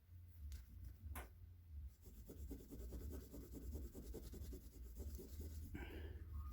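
Emery paper rubbed quickly back and forth on a battery's end to scrape off oxidation: a faint, fast scratchy rasping that starts about two seconds in, after a couple of light clicks.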